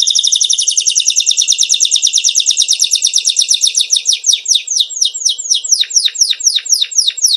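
Songbird singing a fast trill of repeated high notes. About four seconds in, the trill slows into a series of separate whistles, each sweeping steeply down in pitch.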